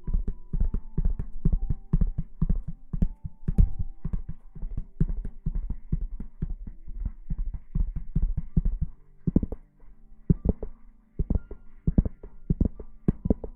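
Rapid rubbing and scrubbing on an ASMR microphone, in quick dull strokes several times a second, over soft background music with held notes.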